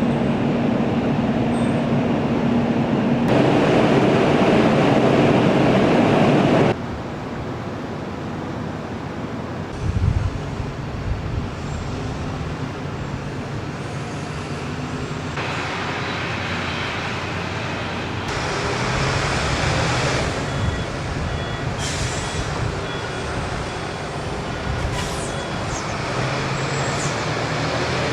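Steady engine and machinery noise of a large ferry, a mix of rumble and hiss that changes level and tone abruptly several times, with a low thump about ten seconds in.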